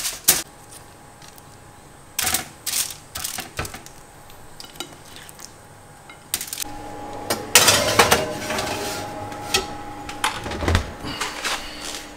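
Pots, pans and utensils clattering in sharp separate knocks while food is being cooked. A steady noise joins about halfway through, under further clatter.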